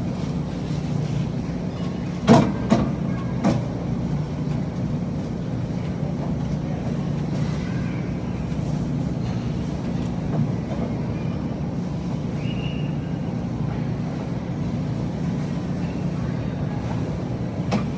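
A steady low mechanical hum, with three short sharp knocks about two to three and a half seconds in.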